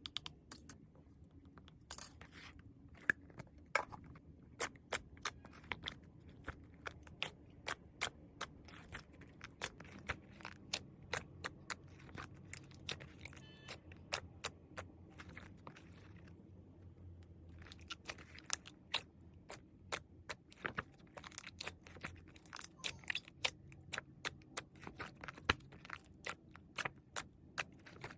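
Irregular sharp clicks and crunches, several a second at times, over a faint low hum.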